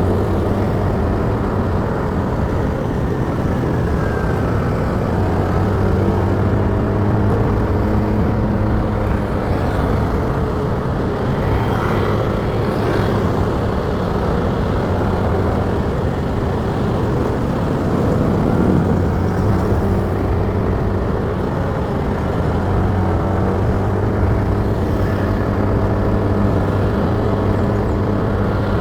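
Motorcycle engine running steadily while riding, its drone fading somewhat in the middle and coming back stronger near the end.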